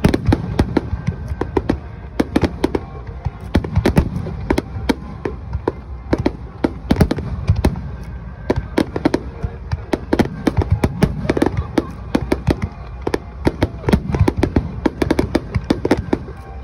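Aerial fireworks finale barrage: a rapid, continuous run of shell bursts, several sharp bangs a second over a steady low rumble of booms.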